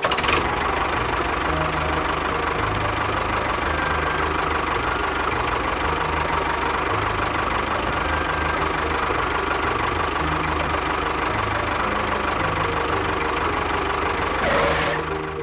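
A small engine or motor running steadily with a low, even chugging, swelling briefly near the end.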